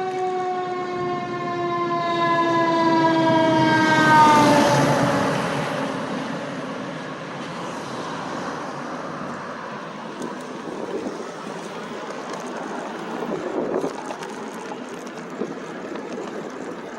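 A passing motor vehicle with a strong, many-toned whine that slides slowly down in pitch and then drops sharply as it goes by about four seconds in, at its loudest. After that comes a steady rush of wind and road noise.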